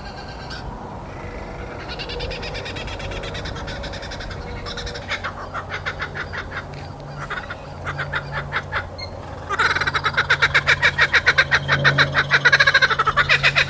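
Laughing kookaburra calling: a soft, rapid chuckling that builds over several seconds into the loud, full cackling laugh, loudest in the last four seconds.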